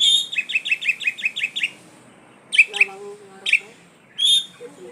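Oriental magpie-robin (kacer poci) singing: a rapid string of about ten sharp, repeated high notes in the first two seconds, then three separate loud calls about a second apart.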